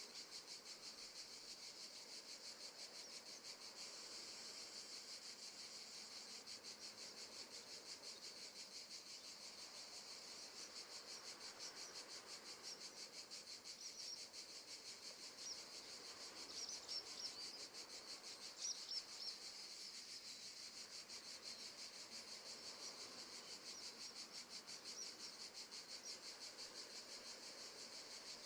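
Faint, steady chorus of crickets chirping in a rapid even trill, from a nature-sound background track. A few brighter, louder chirps stand out about two-thirds of the way through.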